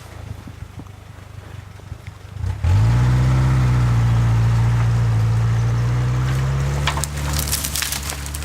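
GAZ-69 engine revved hard about three seconds in, its note climbing quickly and then held at high revs under load. A cluster of sharp crunching cracks sounds near the end.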